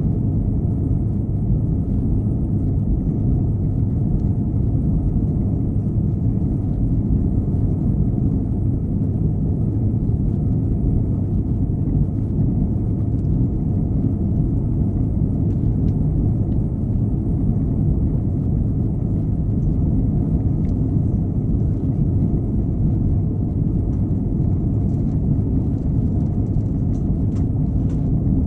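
Steady cabin rumble of an Airbus A321-211 in flight: the drone of its CFM56 engines and the rush of air along the fuselage, heard at a window seat behind the wing. It stays even throughout, with no change in pitch or level.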